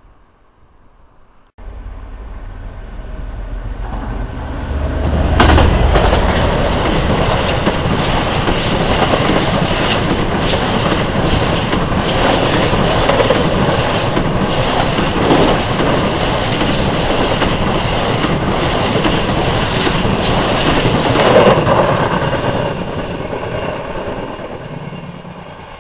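Freight train of coal hopper wagons behind a Class 66 diesel locomotive passing close by: a low diesel rumble builds as it approaches, then a long steady clatter of wagon wheels on the rails with occasional sharp clanks, fading away near the end.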